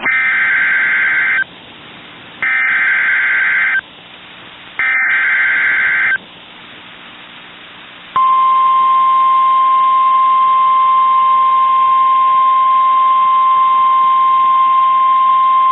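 NOAA Weather Radio Specific Area Message Encoding (SAME) alert header: three buzzing data bursts, each about a second and a half long, with short gaps between them. About 8 s in, the steady 1050 Hz warning alarm tone starts and holds without a break. Together they mark the start of a new warning broadcast.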